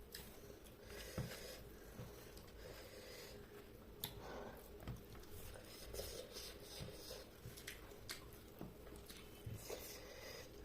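Faint close-up eating sounds: chewing chicken curry and rice, with scattered small wet mouth clicks and squishes.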